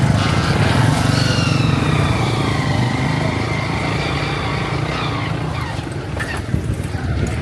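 Motorcycle engine running steadily under way, with a continuous low rumble; its higher engine note slowly falls in pitch over several seconds.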